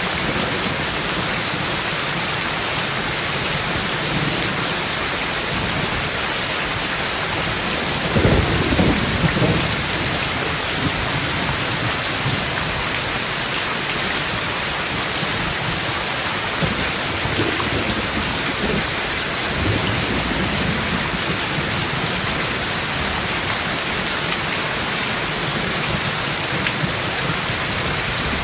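Steady rain falling in a thunderstorm, with a louder burst of thunder about eight seconds in lasting a second or two, and fainter low rumbles of thunder later on.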